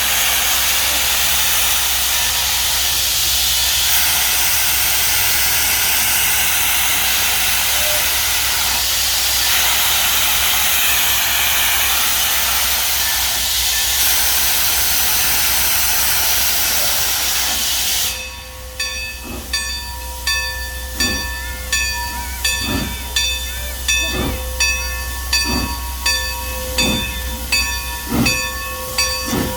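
Steam locomotive letting off a loud, steady hiss of steam for most of the stretch. The hiss cuts off suddenly and is followed by exhaust chuffs, slow at first and gradually quickening as the engine starts the train away.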